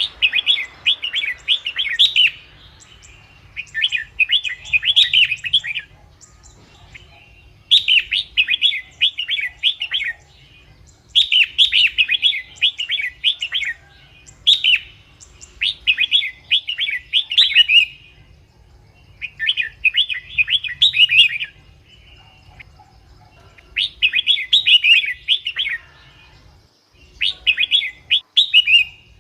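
Red-whiskered bulbul singing: short song phrases of about two seconds each, repeated again and again with brief pauses between them.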